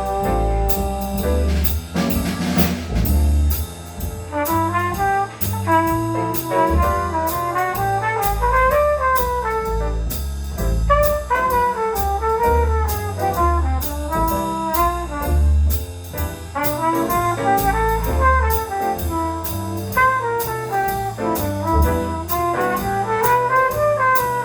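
Jazz band with brass playing a standard: horn lines run up and down over a bass line and steady cymbal and drum strokes.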